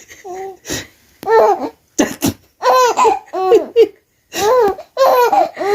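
A small child laughing and babbling in about eight short, high-pitched bursts with brief pauses between them.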